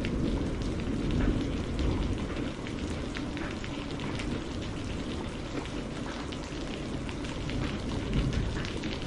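Steady rainfall, with many separate drops striking distinctly over a constant wash of rain.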